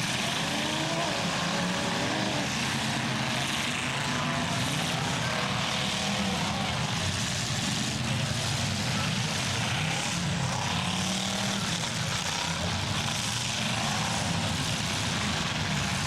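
Several full-size demolition derby cars' engines running together in a steady, loud drone, with a voice faintly underneath.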